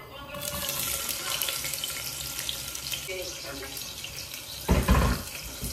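Chopped onion and tomato sizzling in hot oil as they are tipped into a pot on a gas burner: a steady hiss that starts about half a second in. Near the end come a couple of heavy knocks.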